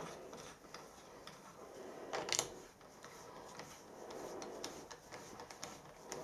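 Light metallic clicks and handling noise as a cap head bolt is fitted through the cutter wheel and screwed into the pipe cutter's casting, with one sharper click about two seconds in.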